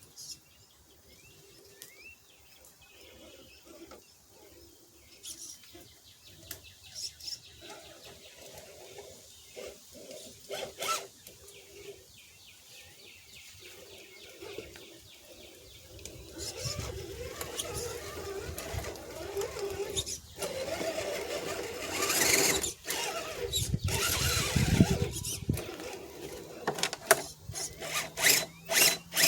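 Redcat Gen7 RC rock crawler's electric motor and gears whining in starts and stops, with clicks and scrapes. Faint for the first half, louder from about halfway through.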